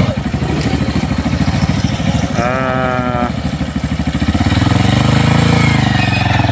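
Yamaha TT-R 125 dirt bike's single-cylinder engine running at a steady idle, then revving up and getting louder about four and a half seconds in as the rider pulls away. A short wavering high call cuts in near the middle.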